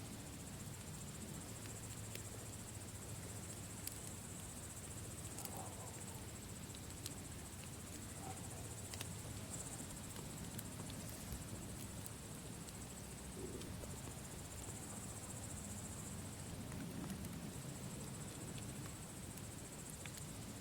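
Campfire crackling with scattered small pops over a low steady rumble, while crickets chirr steadily in the background.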